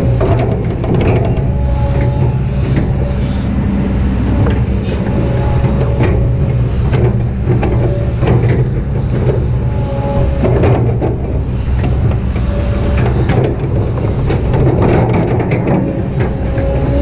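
Kobelco SK200-8 hydraulic excavator's four-cylinder diesel running steadily under load, with a hydraulic whine that rises and drops away several times and scattered short knocks as it works a slope.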